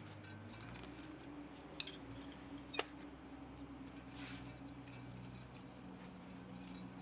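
Light clicks and a short scrape of metal parts and hand tools being handled while a pump motor is dismantled for scrap. There are two sharp clicks, the second the loudest, over a steady faint low hum.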